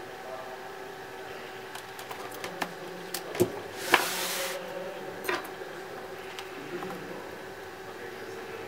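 Small clicks and taps from laptop parts and tools being handled during repair, with a short hiss about four seconds in, over a steady hum.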